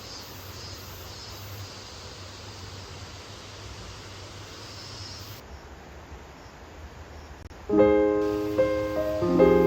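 Steady, fairly quiet ambient background noise, with faint high chirping about twice a second during the first five seconds. Gentle piano music starts about eight seconds in.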